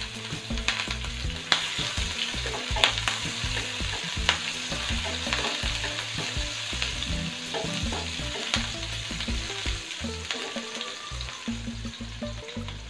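Chopped green chillies and garlic sizzling in hot oil in a non-stick frying pan over a high flame while being stirred with a wooden spatula. A steady sizzle runs throughout, with many scattered sharp clicks.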